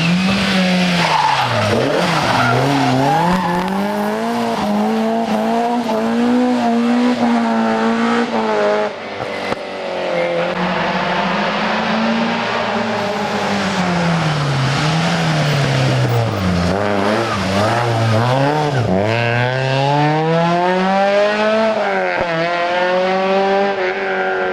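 Rally car engine revving hard and dropping back again and again, its pitch sweeping up and down several times as it accelerates and lifts off, with a brief dip in loudness about nine seconds in.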